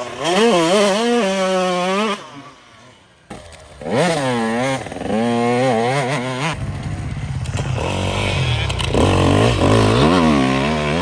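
Dirt bike engines revving hard through the gears, the pitch climbing and dropping again and again as the riders accelerate and shift, in two runs with a short lull between them. From about six and a half seconds a deeper, rougher engine note joins in.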